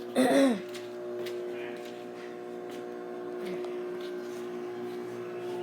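Microwave oven running while heating food, a steady hum.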